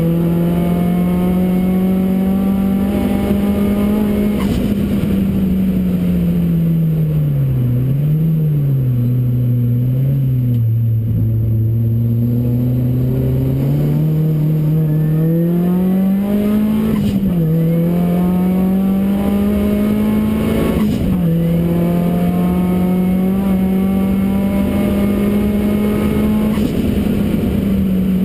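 Ford Racing Puma's modified Focus RS engine driven hard on track, its note held high, then falling away for several seconds and climbing again, with a few brief dips in pitch as the revs change.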